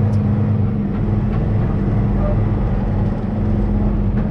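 Semi-truck engine running steadily, a low even hum with no change in pitch.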